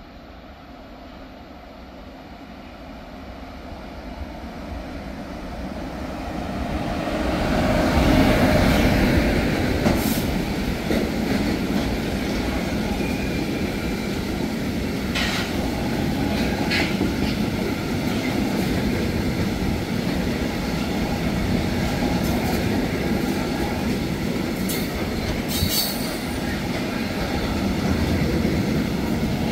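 A freight train approaches and passes, growing louder over the first eight seconds into a steady rumble of wagons rolling by. Brief sharp high squeals and clicks from the wheels come through it several times.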